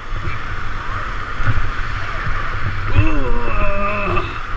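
Rushing river water around a kayak with a low rumble of wind on the microphone; a person's voice calls out briefly, a drawn-out call from about three seconds in.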